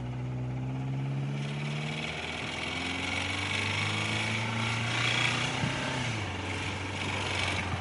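Acura RDX engine pulling under acceleration, heard from inside the cabin: its note climbs steadily, then drops about six seconds in at a gear change and holds lower. The owner hears lifter clacking under acceleration from this engine and blames noisy valve lifters.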